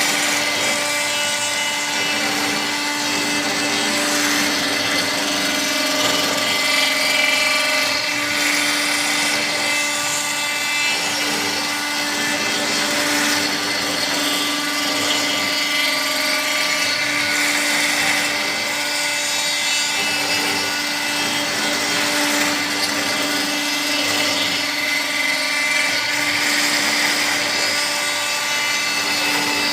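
CNC router running steadily: a held, even whine with a hiss over it, without a break.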